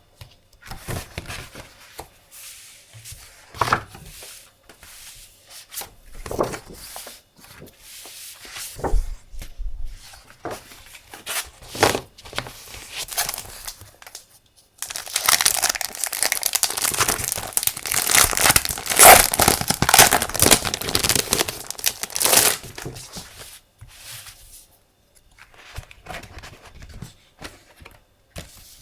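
Paper and plastic packaging handled up close: scattered rustles and taps, then about seven seconds of dense crinkling and tearing starting about halfway through, then softer rustling again.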